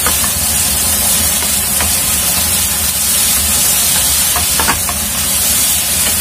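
Flat rice noodles stir-frying in a non-stick pan: a steady sizzle, with a few light knocks of a wooden spatula against the pan.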